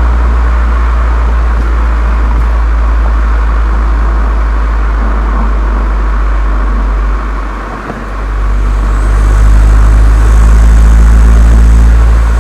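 Volkswagen Golf 7 GTI's turbocharged 2.0-litre four-cylinder running through a Cox aftermarket exhaust: a loud, steady, deep drone. It falls away briefly about seven and a half seconds in, then comes back louder with a clearer engine note before easing near the end.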